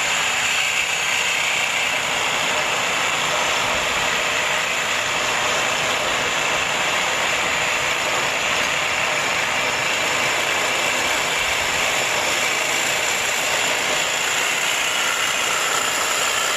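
A power tool working on a car's exhaust, running loud and steady without a break; it starts suddenly and stops just after the end.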